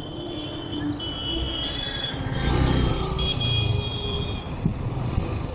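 A motor vehicle's engine running close by, its low rumble swelling about two and a half seconds in, with a thin steady high whine over it.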